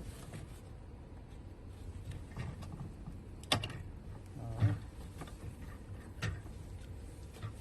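A few sharp clicks and knocks of hard parts being handled during fuel pump installation, with a short creak about halfway through.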